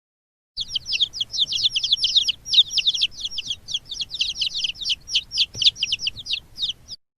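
A group of small birds chirping: many short, high, downward-slurred chirps in quick overlapping succession, starting about half a second in and stopping just before the end.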